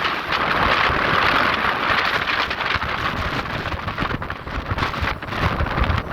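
Strong wind blowing against the microphone: a loud, continuous rush with uneven low rumbles from gusts hitting it.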